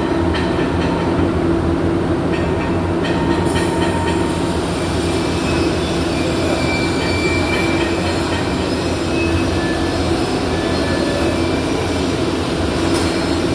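Steady loud workshop din with a constant low hum, typical of welding machines and fume extraction running in a welding hall.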